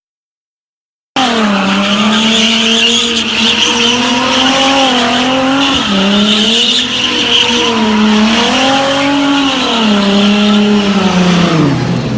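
Toyota 86 drift car's swapped 2JZ turbocharged straight-six running hard, cutting in suddenly about a second in. The revs rise and fall in repeated waves, with tyres squealing throughout. Near the end the revs drop.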